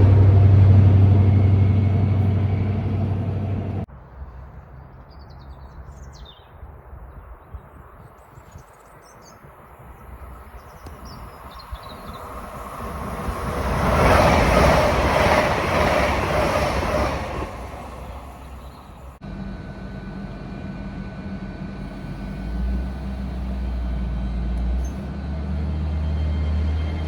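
Trains at a railway station, in separate clips. A loud train sound cuts off about four seconds in. Next, birds chirp while a train's noise builds, peaks and fades as it passes. After another cut, a train's engine hums steadily and low.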